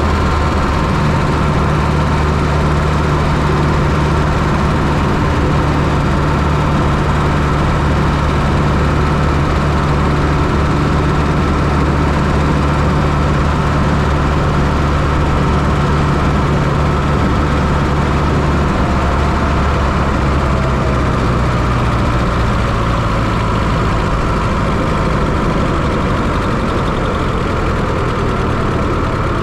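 The 1995 Fiat Coupé's turbocharged 2.0 16-valve four-cylinder engine running steadily, with a slight drop in pitch about two-thirds of the way through.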